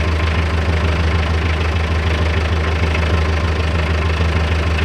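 Farm tractor engine idling steadily, a low, even engine note.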